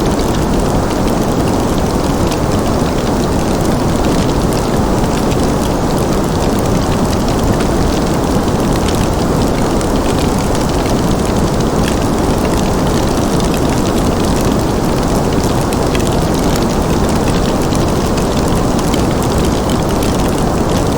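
Fireplace fire crackling with scattered small ticks over a steady, dense low rushing noise that does not change.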